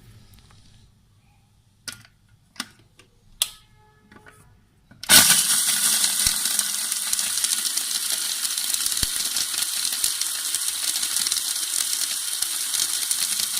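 A few light clicks and knocks, then about five seconds in an electric mini grinder starts suddenly and runs steadily, coarsely crushing whole spices: coriander seeds, dried pomegranate seeds, cumin and ginger.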